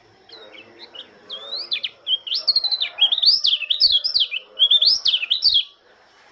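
A pleci Lombok white-eye singing a fast, twittering song of quick rising and falling high notes. It starts softly, grows loud about two seconds in, and stops shortly before the end.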